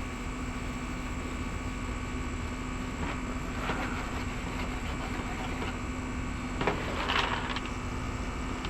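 Steady background hum, broken by a few short scrubbing strokes of a brush across the plastic RC boat hull, about four seconds in and again twice shortly before the end.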